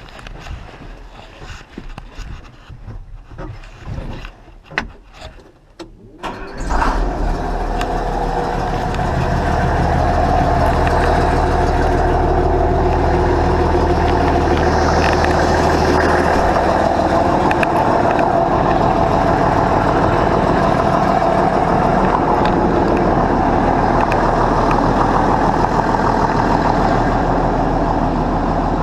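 A few scattered clicks and knocks, then about six and a half seconds in an old car engine starts and settles into a steady idle.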